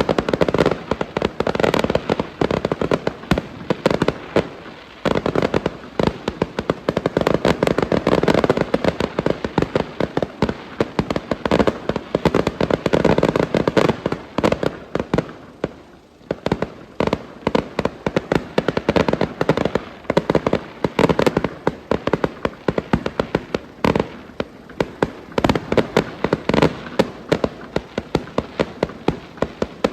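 Fireworks going off in rapid succession: a dense, continuous string of sharp bangs and crackles, easing briefly about halfway through before picking up again.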